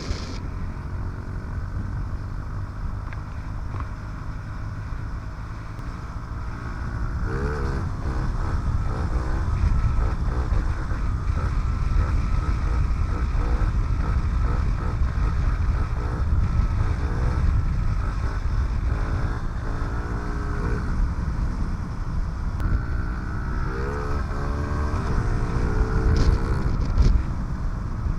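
Honda CRF50F's small single-cylinder four-stroke engine being ridden, its pitch rising and falling again and again as the throttle is opened and closed, with wind rumbling on the microphone.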